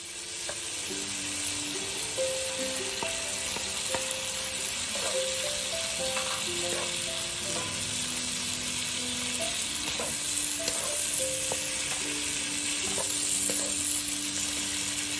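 Shrimp, squid and vegetables sizzling steadily in a hot wok as they are stirred with a wooden spatula. Background music plays a simple melody of held notes over the sizzle.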